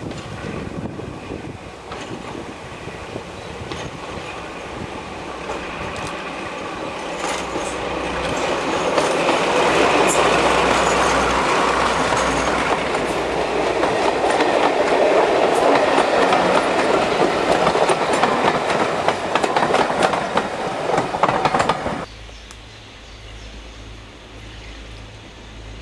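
Diesel locomotive and train running past, the engine and wheel noise growing louder over several seconds, with the clicking of wheels over rail joints. About twenty seconds in it cuts off abruptly to a quieter, steady engine sound with a slow low beat.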